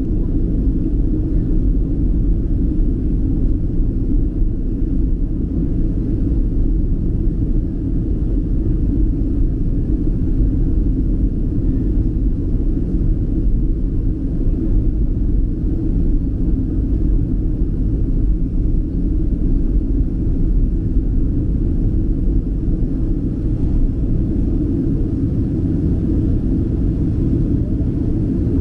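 Steady low rumble inside the passenger cabin of a Boeing 737 airliner in flight: engine and airflow noise, even throughout.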